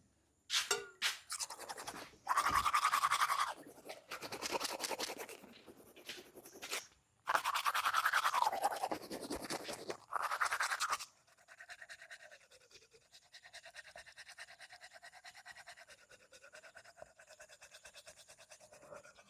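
Toothbrush scrubbing teeth in quick back-and-forth strokes, in several bursts over the first eleven seconds or so, then stopping; after that only faint music.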